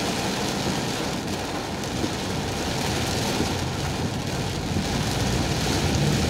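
Very heavy rain pouring onto a car's roof and windshield, heard from inside the cabin as a steady rush of noise.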